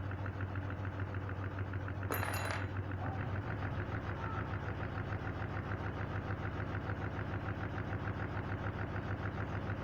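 Front-loading washing machine spinning its drum at speed with a deliberately unbalanced load: a steady low hum with a fast, even rattle. A sharp metallic clink about two seconds in.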